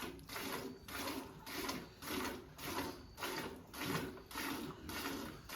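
A dairy cow being milked by hand: milk squirting into a pail in an even rhythm of about two squirts a second, each a short hiss with a dull splash.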